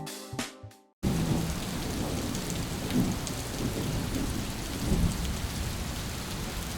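Light rain falling steadily, a soft even hiss with some low rumble. It cuts in about a second in, after a short piece of music fades out.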